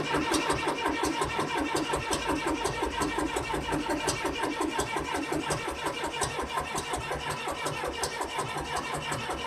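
John Deere 2030 tractor's four-cylinder diesel engine in a hard cold start below freezing, turning over with an uneven pulsing rhythm of a few beats a second and scattered sharp knocks.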